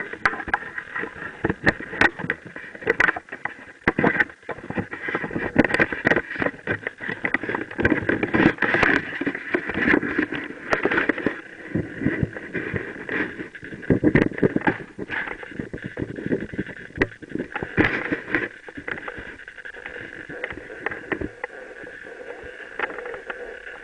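Mountain bike riding downhill over a rough dirt trail: a steady rumble of tyres on the ground with frequent sharp knocks and rattles from bumps, easing somewhat in the last few seconds.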